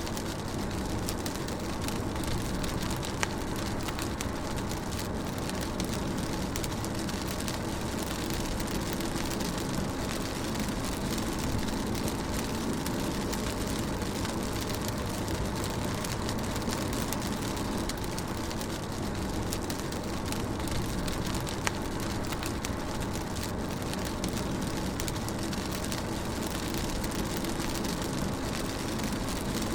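Steady rain heard from inside a moving car, over the low rumble of the tyres and engine, with a few faint drops ticking on the body.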